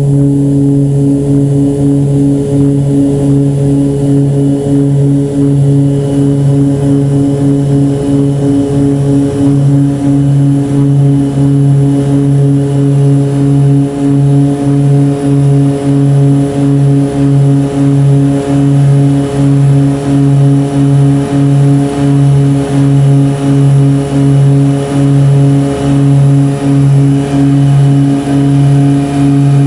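Propeller-driven plane's engine droning steadily, with a regular throb about once a second that becomes more marked about halfway through.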